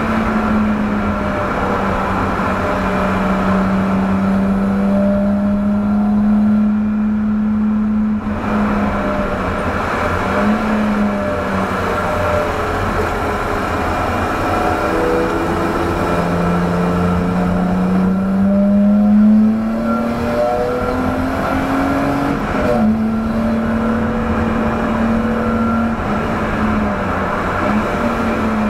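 1989 BMW 325i's straight-six engine driven hard on track, heard from inside the cabin: the revs climb under acceleration and drop several times as the driver lifts off and changes gear, over steady road and wind noise.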